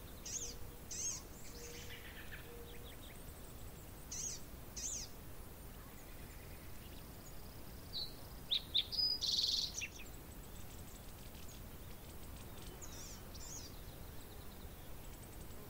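Birds chirping: short, high chirps in scattered groups, the loudest cluster about nine seconds in, over a faint steady background hiss.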